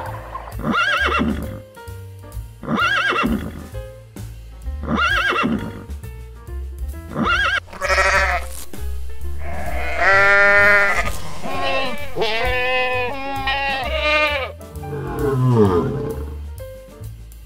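Background music with a steady beat under animal calls. First comes a short call repeated about every two seconds. Then a goat bleats several times, the later bleats quavering, and near the end a lion gives a low, falling growl.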